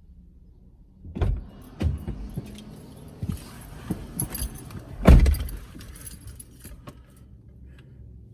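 A series of sharp knocks and clicks with a light metallic jingling, the loudest a single thump about five seconds in.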